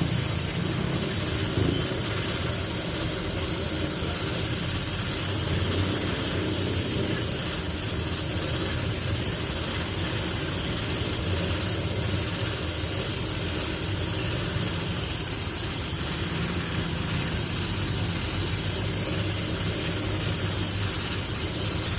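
An engine running steadily at a constant speed, with a broad hiss over it.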